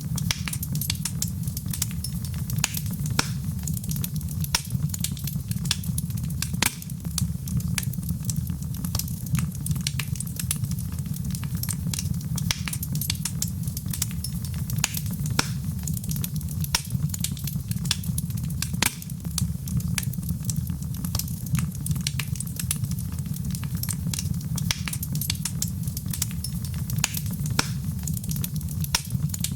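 Fire in a fireplace crackling, with many sharp, irregular pops over a steady low rumble.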